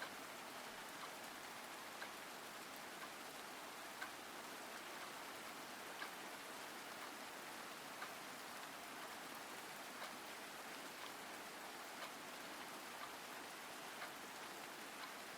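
Steady rain falling, a soft even hiss, with a light tick about once a second, stronger every other beat.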